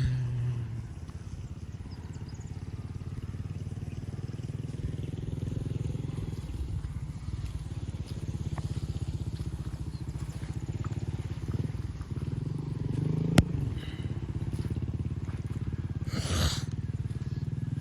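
An engine running steadily with a rapid low pulsing. A sharp click comes about thirteen seconds in, and a brief noisy burst follows near the end.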